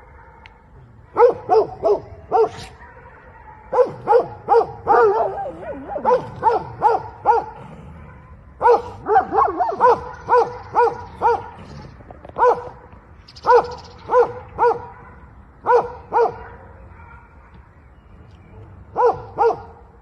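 A dog barking in repeated bouts of short, sharp barks, about three a second, with pauses of a second or more between bouts.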